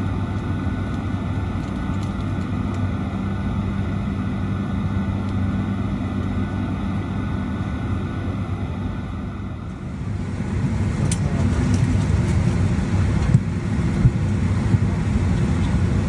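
Steady low rumble of a moving vehicle, heard from inside, with a constant hum. About ten seconds in, the sound cuts to a louder, rougher rumble with a few sharp clicks.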